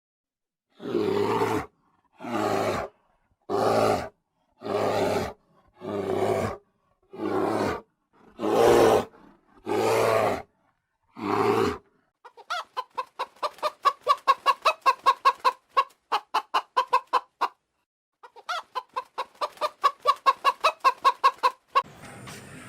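Farm animal calls. First comes a string of nine evenly spaced calls, each under a second long. About halfway through, a chicken takes over, clucking in quick pulses several times a second, with a brief pause before it resumes.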